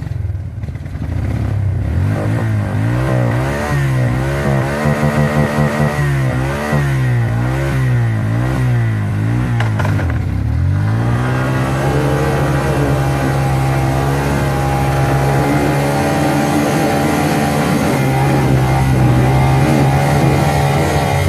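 Suzuki King Quad ATV's single-cylinder four-stroke engine revving up and down over and over for several seconds, then dipping and holding at steady high revs, as the quad is driven to get it up out of deep snow.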